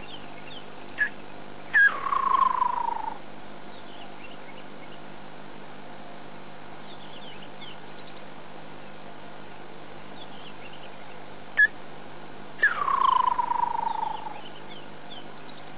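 Woodland kingfisher calling twice, about ten seconds apart: each call is a sharp single note followed by a loud, falling trill lasting about a second and a half. Faint high chirps of other birds sound between the calls.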